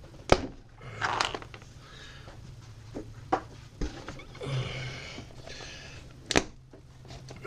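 Handling noise from plastic car parts: a few sharp clicks and knocks, the loudest near the end, as the windshield washer lines are unplugged and the plastic cowl cover is moved.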